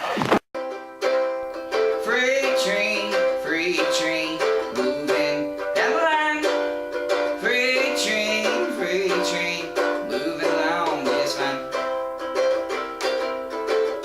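Cigar box ukulele played with a voice singing over it: a song performance.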